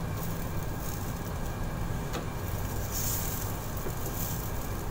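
Small pools of crepe batter sizzling in a frying pan over a steady low hum, with a light tap about two seconds in.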